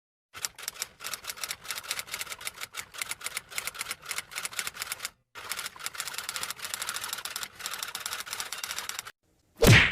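Rapid, irregular key clicks like typing, in two runs with a brief break about five seconds in. Near the end they are followed by a short, loud hit.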